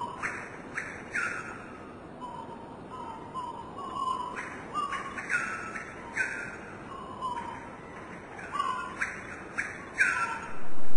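Birds singing: short chirped and whistled notes repeated over and over, some low and rising, others higher and curving down, over a faint steady hiss.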